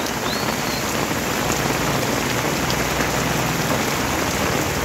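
Heavy rain pouring down onto a road and roadside surfaces: a steady, even hiss of falling rain.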